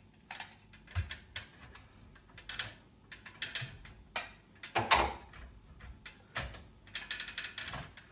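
Irregular clicks and knocks of parts of an air conditioner's indoor unit being handled and worked loose by hand, the loudest knock about five seconds in.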